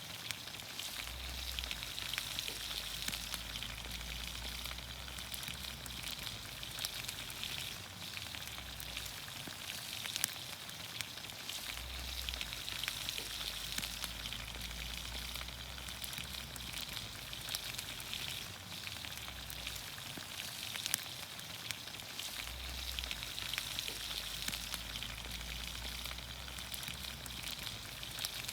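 Green beans, onions, carrots and potatoes sizzling in olive oil over a campfire: a steady hiss with many small pops and crackles.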